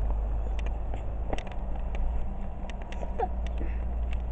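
Steady low outdoor rumble with a scattered series of light clicks and a brief faint voice sound twice.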